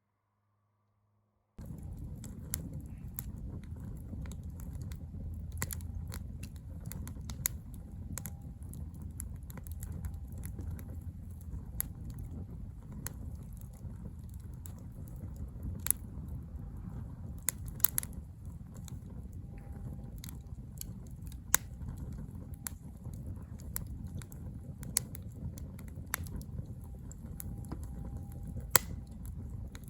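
Wood campfire crackling, with irregular sharp pops over a low steady rumble. It cuts in suddenly about a second and a half in.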